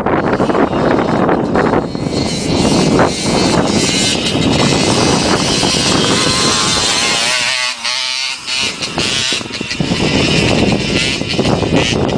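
Motocross bike engines running and revving, dropping away briefly about two-thirds of the way through before picking up again.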